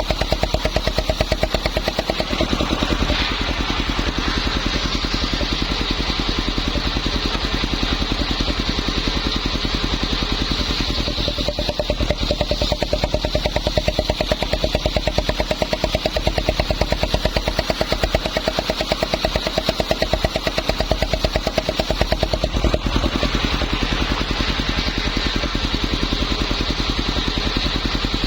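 Engine of a homemade circular saw running steadily with a rapid, even firing beat. The tone shifts a few seconds in, again around the middle, and a few seconds before the end.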